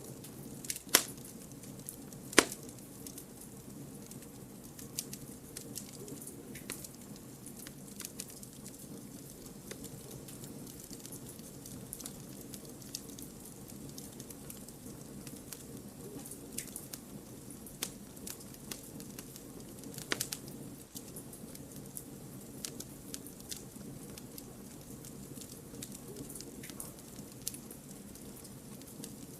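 Wood campfire burning, crackling steadily with frequent small pops. Two sharp, loud snaps come in the first few seconds and another about two-thirds of the way through.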